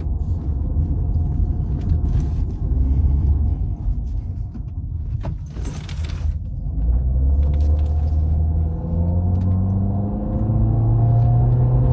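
Car engine running with a low rumble, its pitch slowly rising as it speeds up over the second half, with a brief whoosh about six seconds in.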